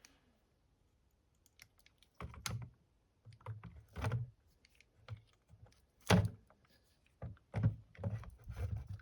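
Irregular clicks, knocks and light thunks of hands handling the leaked old batteries and plastic case of a 1970s Panasonic R-1551 radio, in scattered clusters, with the loudest knock about six seconds in.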